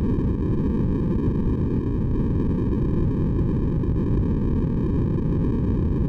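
Steady synthetic white noise, deeper and heavier in the low range, unchanging in level.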